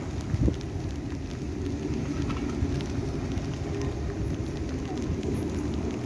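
DB class 423 S-Bahn electric train passing close by: a steady low rumble of wheels running over the rails, with one thump about half a second in.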